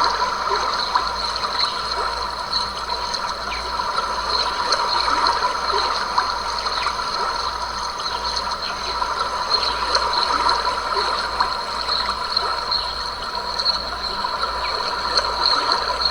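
Stream water running and trickling over rocks, a steady, even flow with small splashes, under a continuous high-pitched chorus of small creatures.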